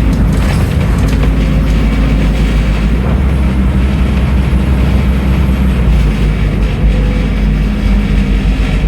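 Scania N310UA articulated city bus running, its diesel engine running steadily with the engine note shifting about three seconds in and again near six seconds.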